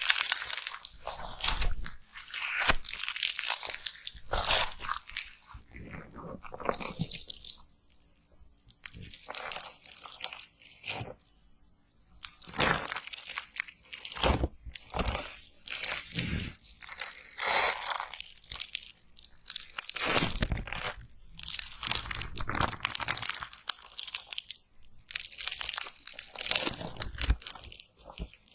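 Slime being squeezed and worked with the hands close to the microphone, crackling in irregular bursts of small clicks and pops with short pauses between.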